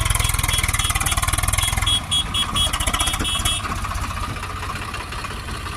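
Diesel engine running with a rapid, even beat; the low rumble drops off about two seconds in.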